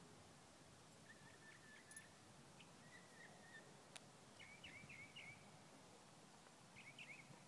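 Faint songbird chirping: short high warbled phrases about four times, over an otherwise near-silent background, with two faint clicks.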